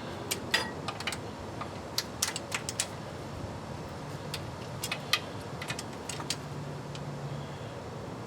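Scattered sharp metallic clicks and clinks, irregularly spaced, from a hand wrench and socket on the transmission oil pan bolts as they are rechecked for tightness.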